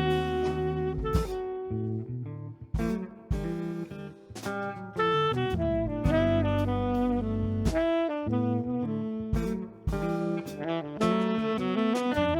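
Live band playing an instrumental passage, a saxophone carrying the melody over electric guitar, piano, bass and drums.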